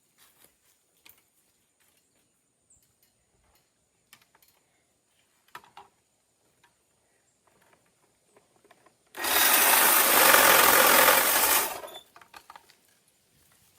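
A small power saw runs for about three seconds, cutting a tree branch, then stops. Faint clicks and rustles come before and after it.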